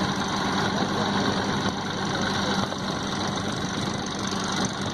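Tractor diesel engine running steadily at low, even revs.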